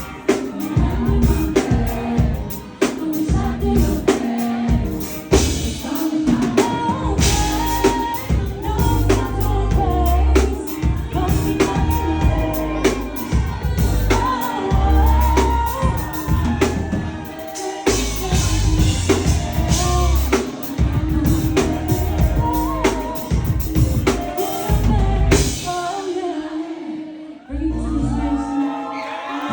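Live pop/R&B performance: a woman singing over a loud backing track with a heavy kick drum and bass beat. The beat drops out for a moment near the end, then comes back.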